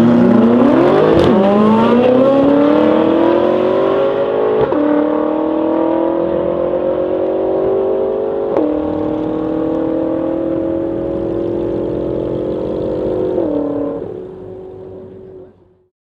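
BMW M5 F10 twin-turbo V8 and Ferrari 458 Italia V8 at full-throttle drag-race acceleration, engine pitch climbing through the gears with a sharp drop at each upshift, about a second, five, nine and thirteen and a half seconds in. The sound fades as the cars pull away and dies out shortly before the end.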